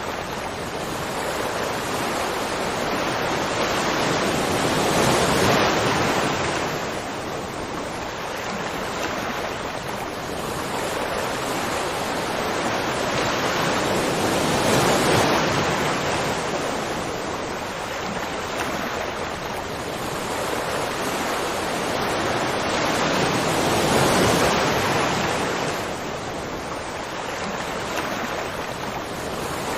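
Waterfall: steady rushing water that swells and eases about every nine seconds.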